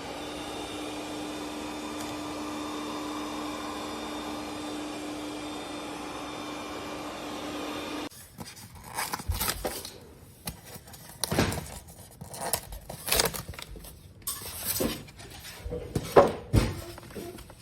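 A motor runs with a steady hum and a constant whine, then cuts off suddenly about eight seconds in. After that come irregular knocks and clatters, several of them sharp and loud.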